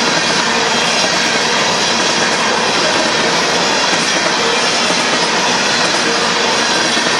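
Empty covered hopper cars of a Union Pacific grain train rolling past at a grade crossing, a loud, steady noise of steel wheels running over the rails.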